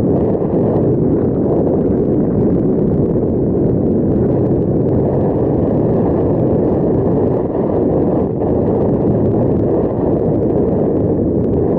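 Wind buffeting the microphone while cycling along the path: a steady, loud low rumble with no clear tones.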